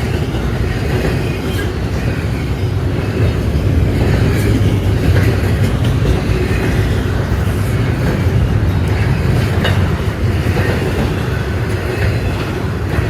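Freight train cars rolling past at close range: a steady, loud low rumble of wheels on rail with scattered clicks and clacks from the wheels.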